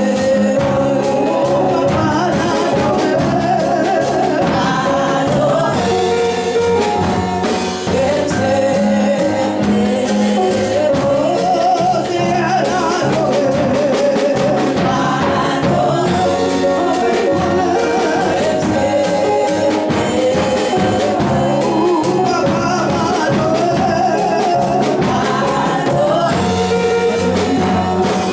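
Gospel worship music: voices singing together over a band with a steady beat.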